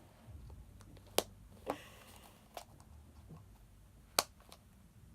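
Sharp clicks and taps of small plastic doll-set pieces being handled and pressed together, four distinct clicks with the loudest near the end, over faint handling noise.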